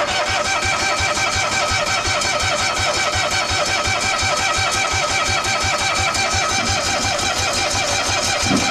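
Starter motor cranking a cold engine at an even, steady pace. Regular compression pulses come through without the engine catching, after it has just stalled. The cranking stops shortly after the end.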